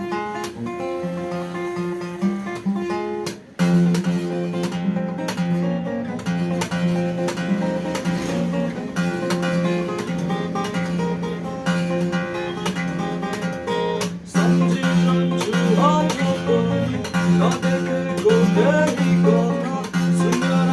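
Acoustic guitar music: strummed and picked chords that drop out briefly about three and a half seconds in, then come back fuller. A higher melody with sliding notes joins about fourteen seconds in.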